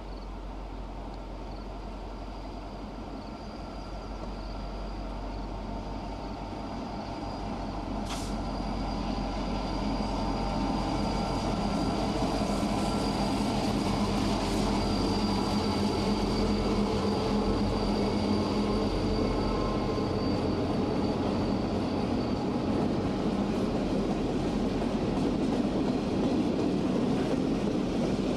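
Canadian National EMD SD50F diesel locomotives approach and pass, their engines growing louder over the first ten seconds. Covered grain hopper cars then roll by with a steady rumble of wheels on rail.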